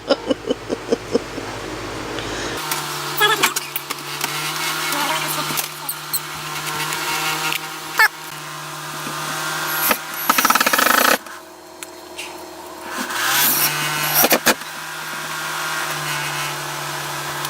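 Battery-powered power tool motor running in two long spells, with a break of about two seconds around eleven seconds in, mixed with scattered clicks and knocks.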